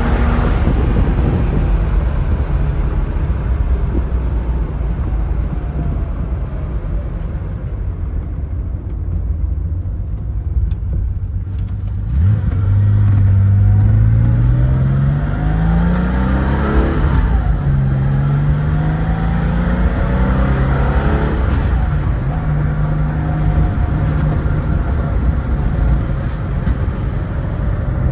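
1975 Porsche 911S's air-cooled flat-six running under way: steady and softer at first, then revving up from about halfway, with two upshifts where the pitch drops and climbs again before it settles to a steady cruise.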